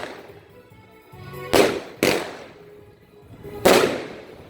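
Three loud firecracker bangs, each with a brief echo: two about half a second apart, then a third nearly two seconds later, with music faintly underneath.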